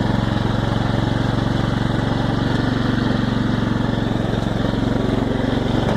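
Riding lawn tractor's engine running steadily at an even pace.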